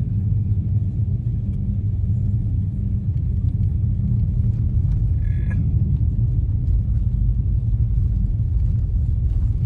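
Steady low road and tyre rumble heard inside the cabin of an all-wheel-drive car travelling at about 40 mph on a rough mountain road.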